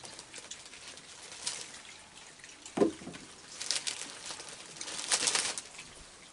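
Heavy rain falling steadily, with louder hissing surges near the middle and toward the end. A short low sound cuts in about three seconds in.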